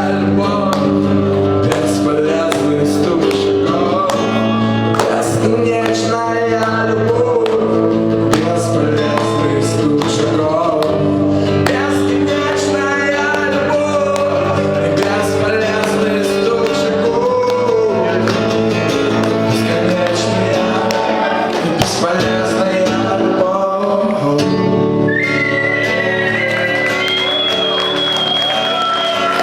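Live acoustic song: a voice singing over strummed acoustic guitar, with the playing going on steadily and a high note held near the end.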